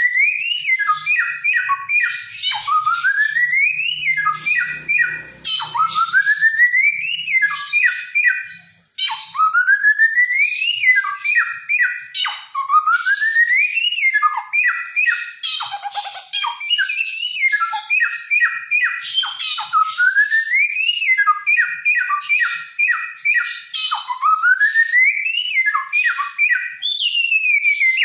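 Samyong songbird singing nonstop. It repeats one phrase about every four seconds: a rising whistled slide, then a quick run of short clipped notes.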